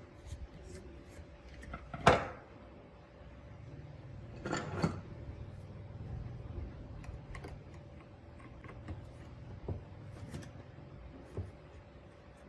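Small hard parts and tools being handled on a workbench: scattered clicks and knocks, with one sharp knock about two seconds in and a short clatter a couple of seconds later, over a faint steady hum.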